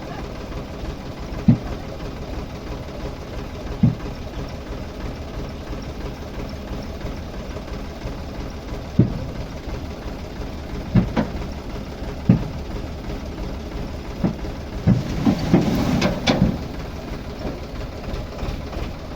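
Tractor diesel engine running steadily at low revs, with occasional single sharp knocks or clunks and a louder, rougher stretch about fifteen seconds in.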